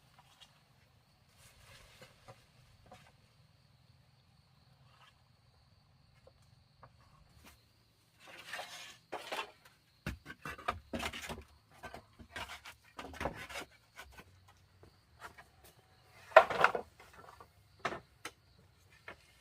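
Irregular rustling and short knocks from hands handling building materials: sparse at first, then busy from about halfway, with the loudest knock near the end. A faint, steady, high insect drone runs underneath.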